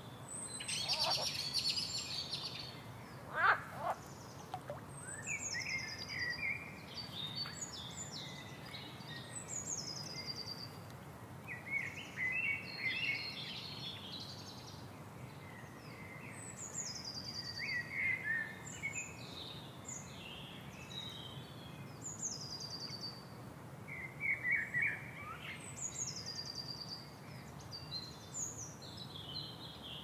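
Several birds calling: repeated high, falling whistles and bursts of chirping, over a steady low background rumble. A quick rising call about three and a half seconds in is the loudest moment.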